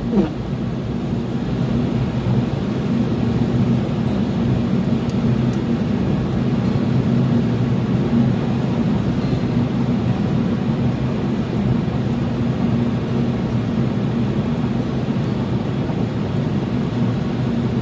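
A car driving, with steady engine and road noise and no change in pace.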